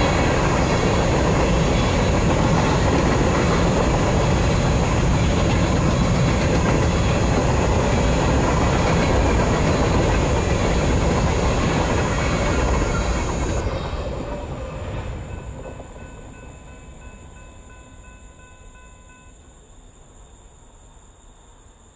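Norfolk Southern freight train of hopper cars rolling past, a loud rumble and clatter of steel wheels on rail. About thirteen seconds in the last car passes, and the noise fades away over the next few seconds.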